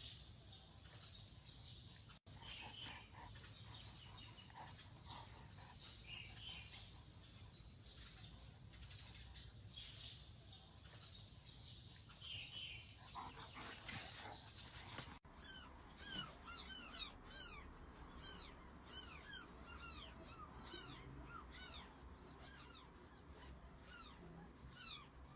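Faint, high chirping calls, scattered at first, then after a cut about halfway through a denser run of short arching chirps repeating several times a second.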